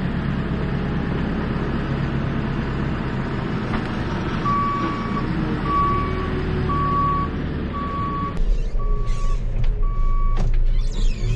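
Farm machine's engine running with its reversing alarm beeping, about six single-pitched beeps about a second apart, starting partway through. The low engine rumble gets heavier near the end.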